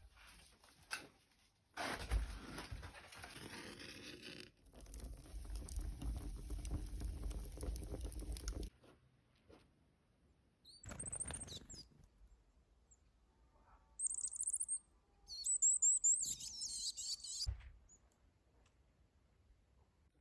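A stretch of dense pattering noise that cuts off abruptly, then a few seconds later several short, high chirps of a small bird.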